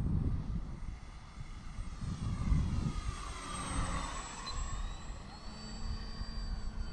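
Electric RC airplane's brushless motor and propeller whining as it flies past, the whine swelling and shifting in pitch about three to four seconds in. Gusty wind buffets the microphone with a low rumble.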